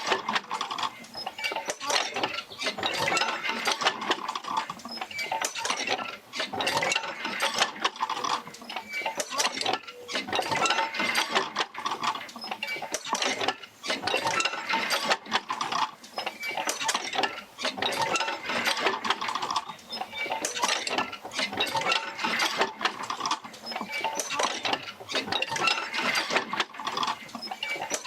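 Oil-field jerker-line field wheel rocking back and forth under power, a continuous clatter of mechanical knocks and clicks with short squeaks from its moving joints.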